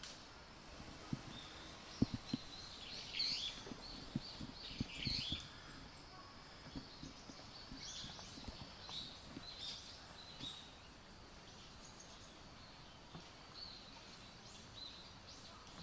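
Birds chirping in short, scattered calls over a faint steady hiss, with a few soft low knocks in the first half.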